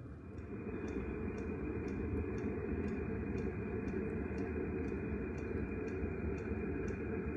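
Diesel air heater running: a steady fan and burner rush, with its fuel dosing pump ticking evenly about twice a second.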